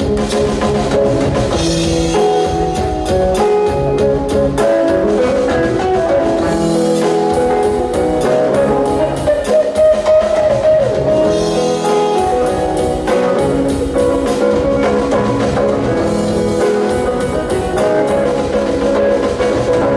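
Instrumental band music: sustained melodic lines over a steady drum beat, from a rain-themed piece drawing on ragas such as Malhar.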